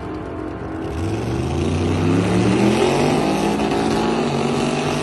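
Drag-race car engine running steadily, then from about a second in climbing in pitch and getting louder as the car accelerates, holding at high revs near the end.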